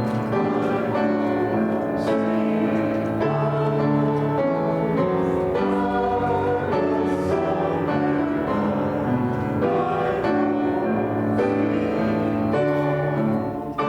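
Church postlude on a keyboard instrument: sustained chords and a melody moving from note to note, about once a second, without a break.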